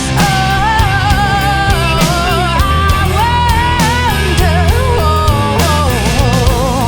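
Live rock band playing an instrumental passage between sung verses: drums and bass under a bending, wavering lead melody line.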